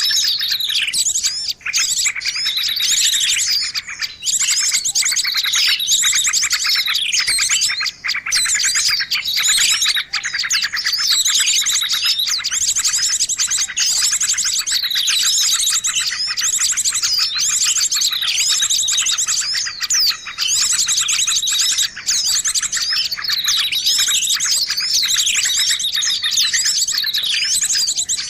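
A dense, noisy chorus of many small birds chirping, trilling and calling over one another without pause: a bird-lure recording meant to draw in birds of all kinds.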